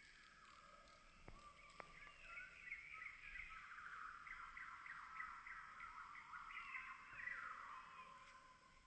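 Faint songbirds chirping and trilling, several overlapping calls with a quick run of repeated notes in the middle, and two soft clicks about a second and a half in.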